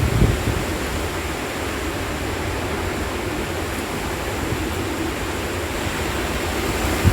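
Strong storm wind blowing steadily as a dry storm front arrives, with gusts buffeting the microphone just after the start and again near the end.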